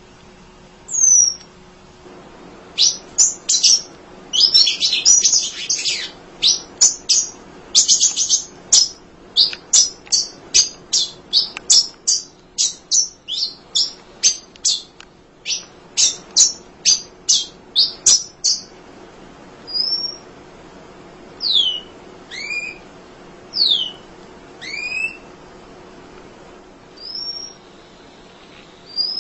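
Emprit (munia) chattering song: a fast run of high, sharp chip notes, several a second, then after about eighteen seconds sparser single whistled notes, some slurring downward.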